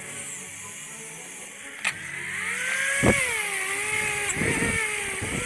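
A motorcycle engine is heard after a click about two seconds in. It catches and runs, its pitch rising and falling with the throttle.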